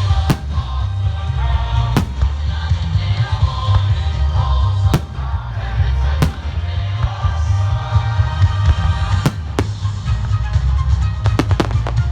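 Fireworks going off in sharp single bangs every second or three, with a quick cluster of bangs near the end, over loud continuous music.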